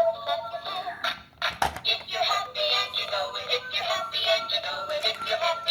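ToyZe Smart Q&A Cartoon Train playing a children's song with a synthesized singing voice through its built-in speaker, with a single click about a second and a half in.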